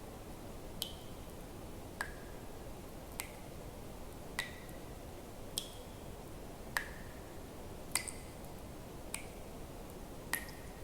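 Water drops falling one at a time into water, about one every 1.2 seconds, nine in all. Each is a sharp plink with a brief ringing tone whose pitch varies from drop to drop, over a faint steady low hiss.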